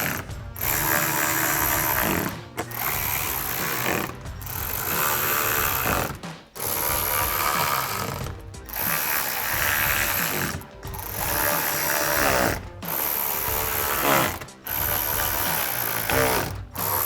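Hand ratchet with a T15 Torx socket clicking in repeated runs, a short pause about every two seconds, as screws are driven in.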